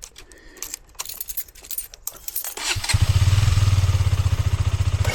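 Light clicks and rattles, then a single-cylinder motorcycle engine starts about three seconds in and settles into a steady, fast-pulsing idle.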